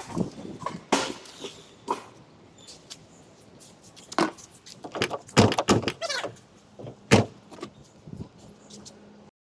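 A series of irregular knocks and bangs, the loudest a cluster about five seconds in and a single one about seven seconds in.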